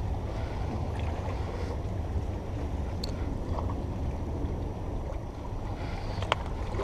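Strong wind buffeting the microphone: a steady low rumbling rush, with a faint click or two.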